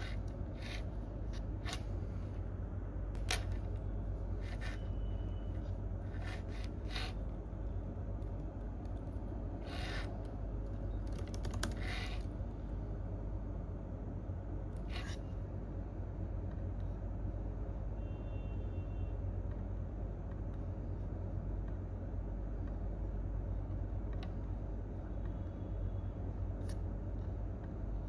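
Scattered computer keyboard and mouse clicks, single and in short clusters, spaced irregularly and fewer in the second half, over a steady low rumble of room noise.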